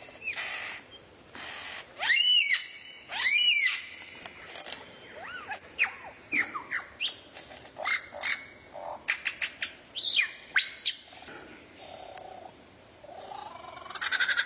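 Songbird singing a varied phrase: arched whistled notes, quick down-slurred sweeps and short sharp clicks. A fast trill of repeated notes starts near the end.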